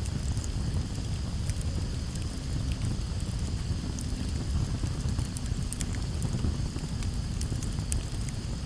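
Campfire burning, with a steady low rush under many scattered sharp crackles and pops from the burning wood.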